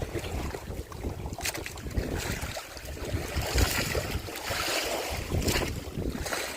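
Wind buffeting the microphone in uneven gusts, with a rushing, water-like hiss swelling in the middle.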